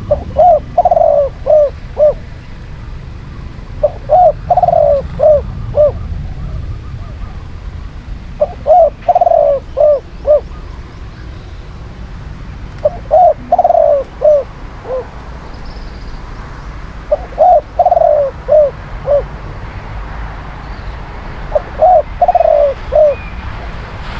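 Spotted dove cooing: a repeated phrase of about five notes, the second drawn out, given six times at roughly four-second intervals.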